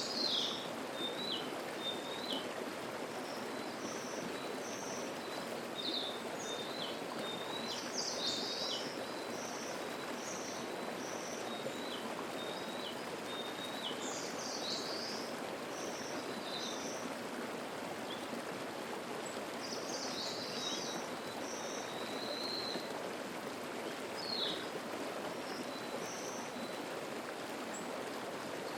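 Mountain stream babbling steadily, with songbirds singing over it: short high chirps and notes repeating throughout, a few louder calls standing out now and then.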